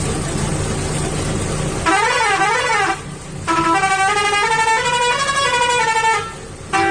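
Truck engine running under a multi-note musical horn: a quick warbling up-and-down tone about two seconds in, then a tune of stepped horn notes that pauses briefly and starts again near the end.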